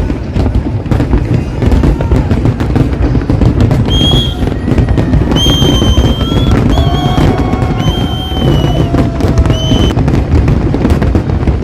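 A fireworks display bursting and crackling in a dense, continuous barrage. Several high held tones sound through the middle of it, from about four seconds in.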